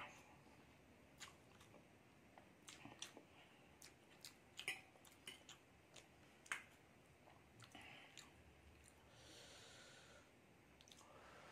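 Faint, close mouth sounds of a person eating hakka noodles: scattered short wet chewing clicks, with a soft hiss lasting about a second, about nine seconds in.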